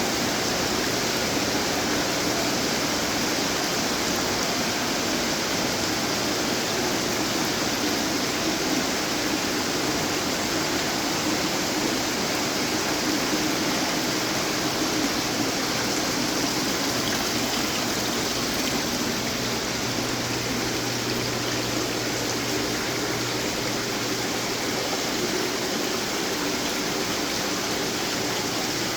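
Steady splashing and trickling of water from running decorative garden fountains.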